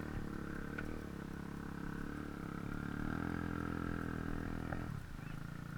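Dirt bike engine running steadily, its pitch rising a little midway and the sound falling away near the end.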